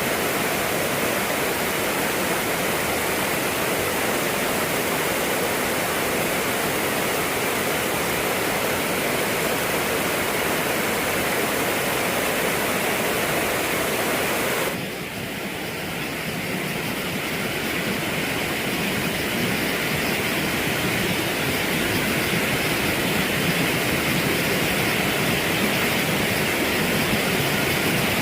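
Steady rush of flowing stream water. About halfway through it drops suddenly, then builds back up.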